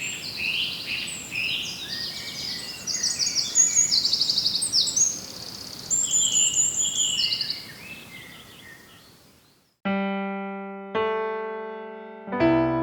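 Bull-headed shrike singing a varied, high-pitched run of chattering and trilling phrases, which fades out. Then three piano notes are struck about a second apart and ring on.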